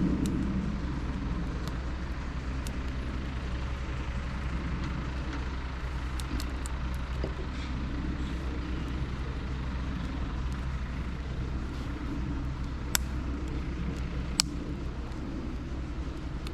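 A vehicle's engine running steadily as a low, even drone, with two sharp clicks near the end.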